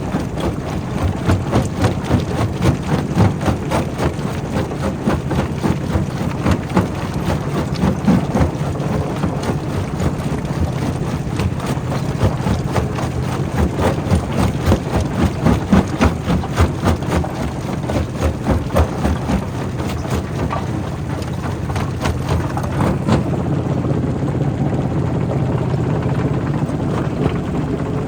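Quarry primary rock crusher running: a steady low machine hum with frequent irregular knocks and cracks of stone being crushed. The knocks thin out in the last few seconds while the machine keeps running.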